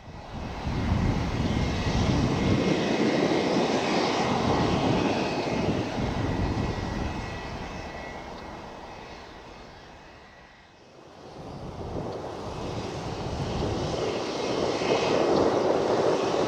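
Jet engines of a Boeing 777-200LR, its GE90 turbofans, running at taxi power: a steady rumble with a thin high whine. It fades down to a low point about ten seconds in, then builds again.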